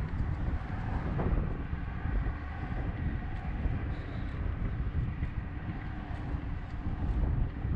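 Wind buffeting the microphone of a GoPro on a moving bicycle: a steady low rumble.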